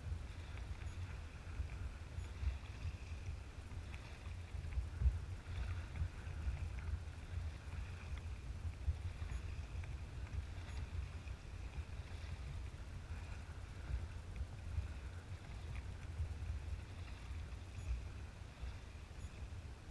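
Kayak paddling on open water: paddle strokes and water sloshing against the hull about every two seconds, over a constant low rumble.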